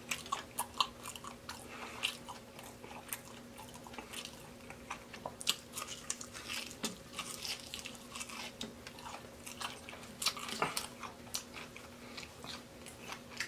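Close-up eating sounds of biting into and chewing a deep-fried baby back rib: many short, irregular crackles and clicks from the fried crust and the mouth.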